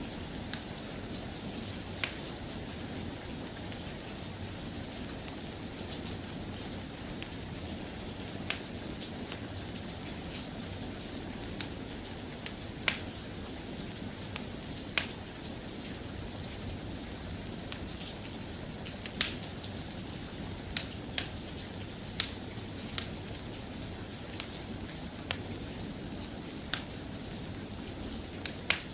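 Steady, soft rain with irregular sharp ticks scattered through it.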